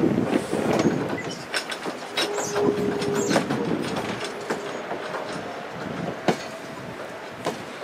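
Train wheels clicking over rail joints, with a few brief high squeals, fading steadily as the train moves away.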